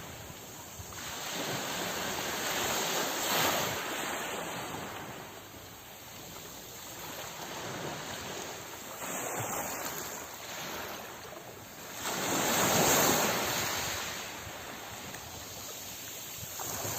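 Sea waves breaking and washing ashore, a steady surf hiss that swells with a louder wave about 3 seconds in and another, the loudest, about 13 seconds in, fading between.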